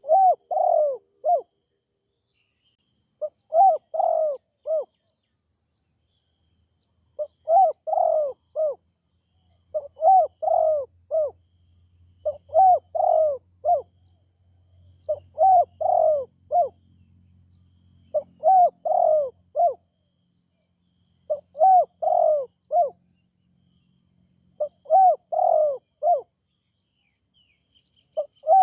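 Spotted dove cooing: a short phrase of four or five coos, repeated about every three seconds.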